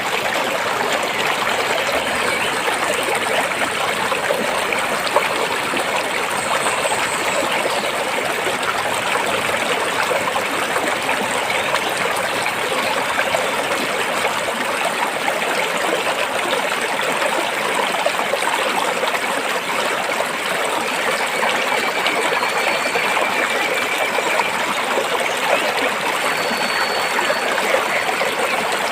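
Stream flowing over rocks: a steady rush of running water with no change in level.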